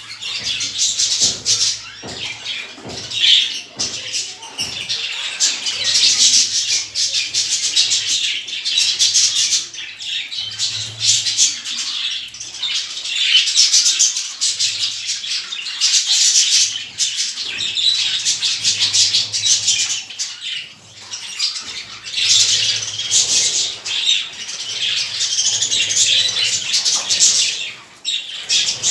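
Many small cage birds chirping and chattering continuously, their calls overlapping densely.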